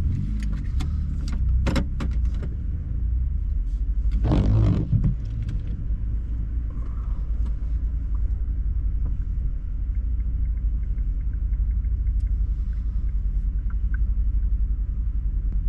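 Vehicle engine idling steadily, a low rumble heard from inside the cab. A few sharp clicks come in the first two seconds, and a brief louder rustling noise about four seconds in.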